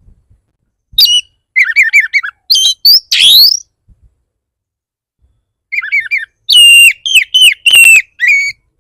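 Oriental magpie-robin (kacer) singing a fierce, agitated song in two loud bursts of quick chirps, short trills and clear whistled notes, one with a rising sweep, about two seconds apart. This is the aggressive song kacer keepers play to provoke a rival male into answering.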